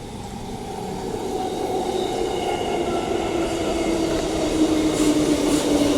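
A Transperth electric suburban train pulls into the platform, growing louder as it approaches. Its motor whine falls slowly in pitch as it slows to stop, over a rumble of wheels on rail.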